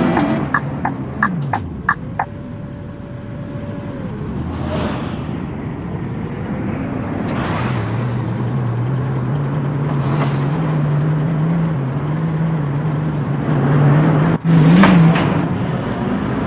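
Scania K230UB bus's five-cylinder diesel engine heard from inside the bus, its note rising as the bus picks up speed. A quick run of sharp rattling clicks comes at the start, and several short hisses come through the ride.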